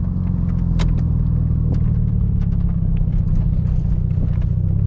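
Car engine and road noise heard from inside the cabin while driving slowly: a steady low drone, with a few small clicks and knocks over it.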